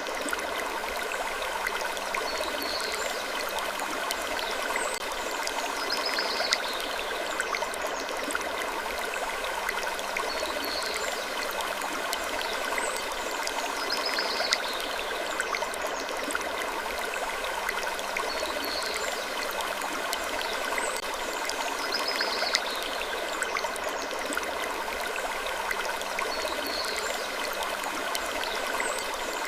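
Looped wood-creaking sleep ambience: a steady, even hiss with short, high creaks recurring every couple of seconds.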